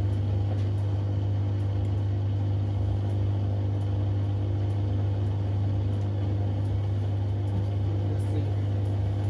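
Washing machine running steadily, a constant low hum with no change in level.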